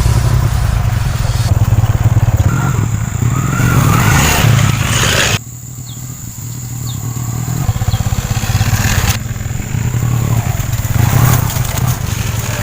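Motorcycle engine running while being ridden. The sound drops abruptly about five seconds in, then rises again.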